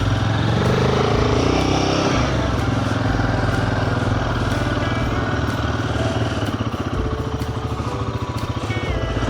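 Motorcycle engine running while riding, its pitch falling about two seconds in, then holding a steady note.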